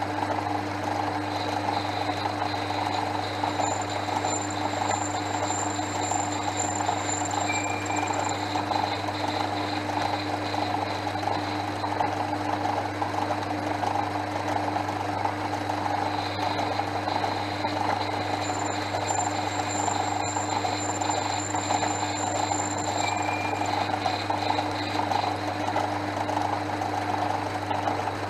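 Portass Model S mk2 metal lathe running steadily with a constant hum, and a faint high whine that comes and goes twice.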